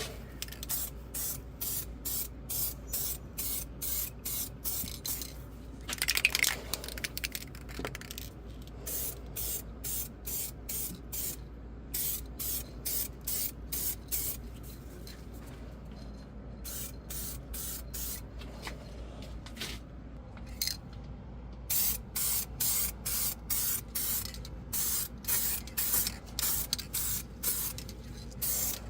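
Paint being sprayed in short, rapidly repeated hissing bursts, about two to three a second, in runs separated by brief pauses, with one longer, louder burst about six seconds in.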